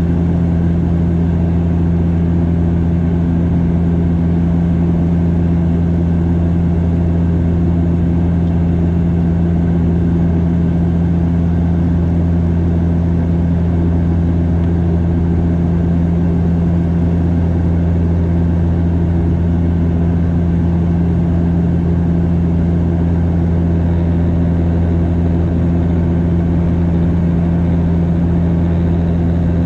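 Cabin noise of a Bombardier DHC8-Q400 turboprop airliner in flight: a steady, loud propeller and engine drone with a low hum made of several held tones over a constant rush of noise.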